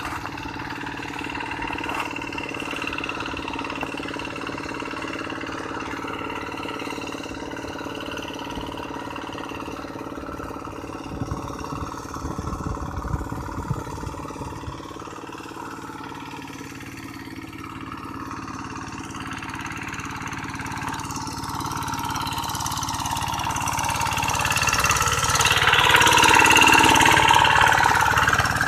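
Tractor engine running steadily, growing louder over the last several seconds.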